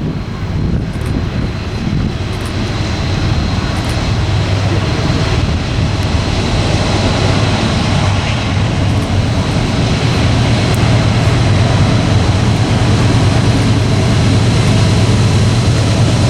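Diesel locomotive engine drone, a steady low hum growing gradually louder as a train approaches.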